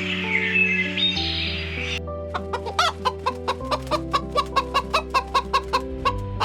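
Chicken clucking in a quick, even run of short calls, about four a second, starting about two seconds in, over background music with steady chords.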